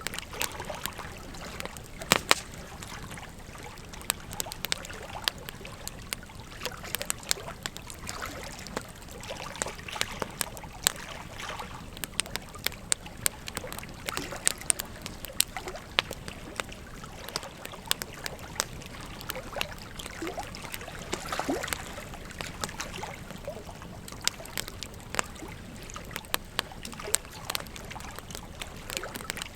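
Wood fire crackling, with frequent irregular sharp pops and snaps, over the steady rush of a flowing river. The loudest pops come about two seconds in.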